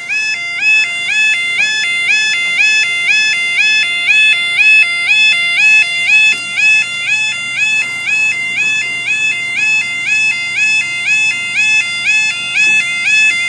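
Level crossing's electronic warning alarm sounding, a steady two-tone warble stepping back and forth between a lower and a higher pitch several times a second, warning that a train is coming.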